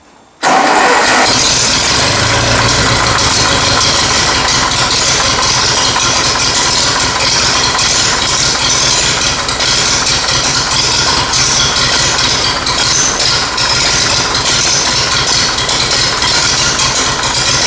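Massey Ferguson TEA20 tractor's four-cylinder petrol engine starting up about half a second in and then running steadily, a freshly rebuilt engine that, by the owner's reckoning, needs a bit of a tune-up.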